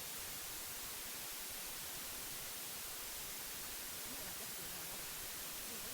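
Steady white noise, an even hiss.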